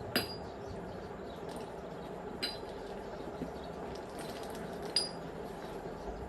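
Three light metallic clinks, each with a short ring, spaced a couple of seconds apart, as metal tools and parts are handled during a tractor repair. A steady hum runs underneath.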